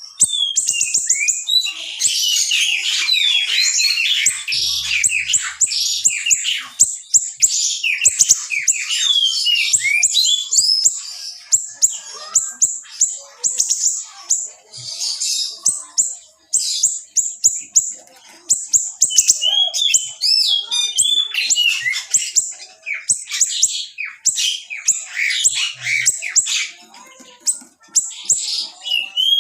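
A small songbird known in Indonesian bird-keeping as siri-siri singing in rapid, dense, sharp bursts of high chirps and trills, with only brief pauses between phrases.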